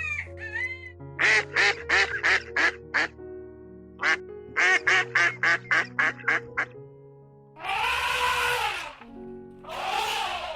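Ducks quacking in quick runs of short quacks, first about six and then about ten, followed by two longer, harsher calls, over steady background music.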